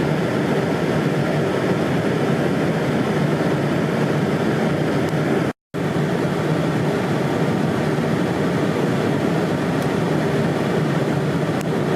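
Strong gusty wind buffeting the microphone in a blizzard, a loud steady low rush. It breaks off for an instant about five and a half seconds in and picks up again.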